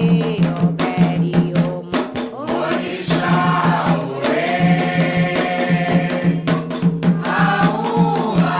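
Voices singing an Afro-Brazilian ritual chant to the orixás over a steady drum beat.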